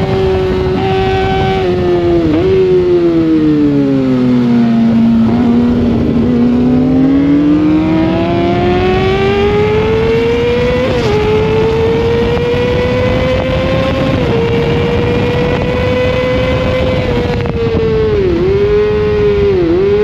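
Sportbike engine revving hard, heard onboard with wind rush. The revs fall smoothly about four seconds in and climb back from about six seconds, with short dips at gear changes near eleven and fourteen seconds and two quick dips near the end.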